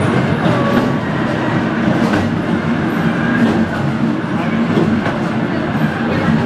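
Carriage of the steep cable-hauled Scenic Railway running down its incline, heard from on board: a steady rattling rumble of wheels on rails with scattered sharp clicks.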